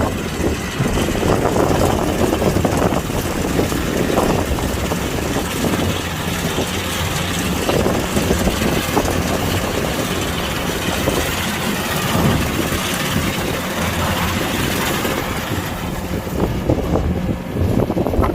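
Kubota DC-105X rice combine harvester's diesel engine and machinery running steadily.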